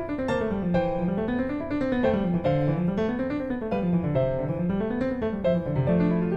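Background music: a piano playing flowing arpeggios that rise and fall over and over.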